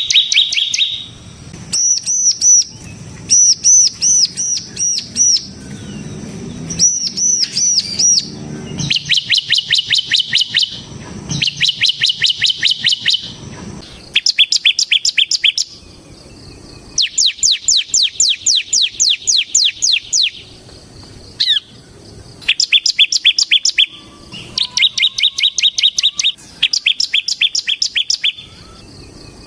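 Bar-winged prinia (ciblek semi) singing in its rapid rattling 'ngebren' style. It repeats runs of quick, high, sharp notes, each run lasting one to three seconds with short pauses between. Near the start there are a few slower phrases of looping notes.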